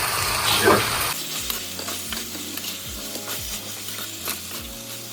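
Chicken and onions frying in oil in a pot, with a spoon clicking and scraping against the pot as they are stirred. The sizzle is loudest for about the first second, then drops to a lower, steady frying hiss.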